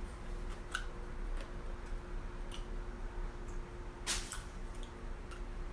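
Close-miked eating sounds: wet chewing and mouth noises with a few soft clicks and one louder smack about four seconds in.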